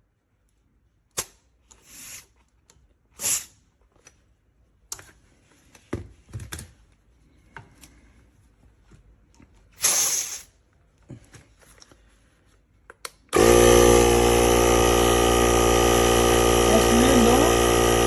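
Scattered handling clicks and knocks. About 13 seconds in, the AUTDER cordless tyre inflator's electric compressor starts abruptly and runs loud and steady, pumping air into a car tyre.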